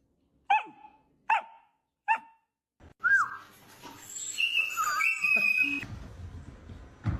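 Puppy giving three short, high barks in a row, then a longer stretch of high whining vocalising with rising and falling pitch, as if answering back.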